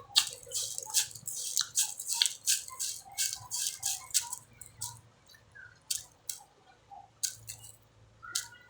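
Crisp crunching and chewing of mango close to the microphone: a quick run of sharp crackly bites, densest in the first half and thinning out after.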